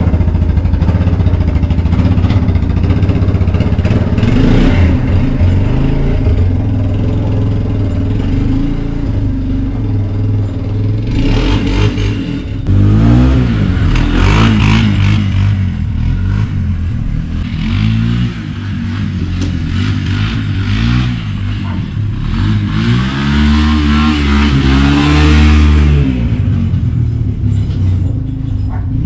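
Honda Fourtrax 300 ATV's single-cylinder four-stroke engine running while being ridden, revving up and dropping back again and again.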